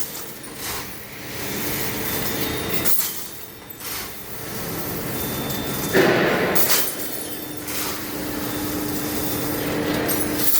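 Heavy-duty lathe turning a large steel part, the cutting tool running steadily against the metal. A louder surge comes about six seconds in, and a faint steady hum joins after it.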